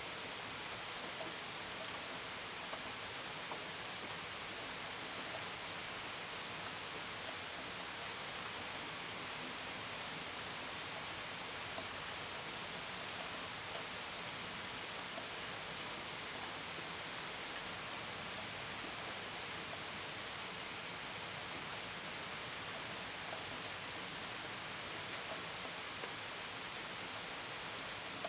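Steady rain, with drops pattering and dripping now and then on a window and gutters. Crickets chirp in short, evenly repeated pulses beneath it.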